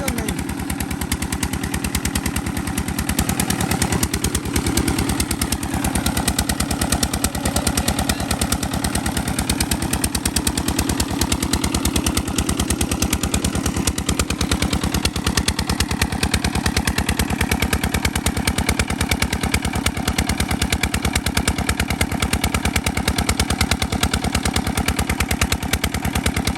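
Single-cylinder Peter diesel engine running steadily at constant speed while driving a tubewell pump, its exhaust giving a rapid, even train of beats.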